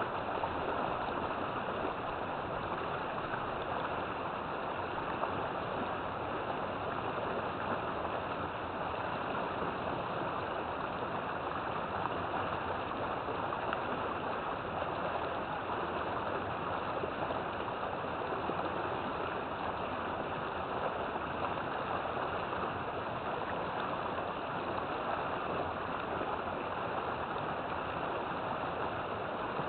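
River water flowing, a steady rushing with no breaks or changes.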